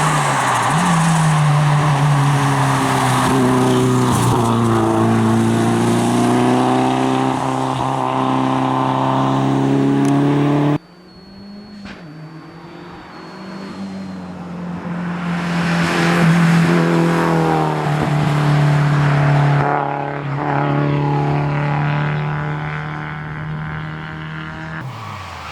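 Toyota Celica rally car's engine running hard at high revs, its pitch shifting as it changes speed. About eleven seconds in, the sound cuts off suddenly to a quieter take in which the engine grows louder and then fades away.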